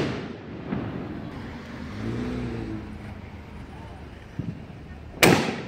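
Firework bangs: a sharp, loud report about five seconds in, with the tail of another bang fading as the sound begins. Between them, about two seconds in, comes a brief low pitched sound.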